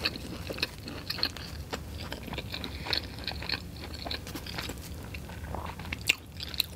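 A person chewing a mouthful of sausage, egg and cheese waffle sandwich with a firm, hard bun: a steady run of small crunches and crackles.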